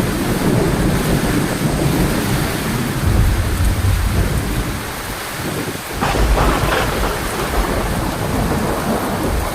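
Heavy rain falling steadily with rolling thunder, a low rumble swelling about three seconds in and again just after the middle.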